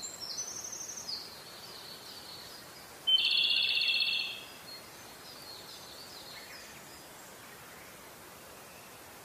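High-pitched bird-like chirps over a steady hiss. A run of quick falling chirps comes first. About three seconds in, a loud buzzy trill lasts just over a second, and fainter chirps follow.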